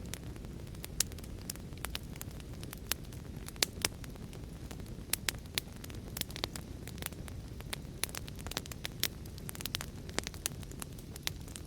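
Wood fire crackling: a steady low rumble of flames with sharp, irregular pops and snaps, several a second.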